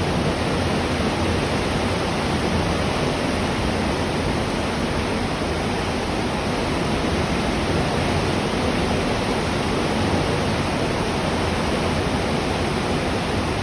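Steady rushing noise of wind and the churning wake at a cruise ship's stern, with no breaks or distinct events.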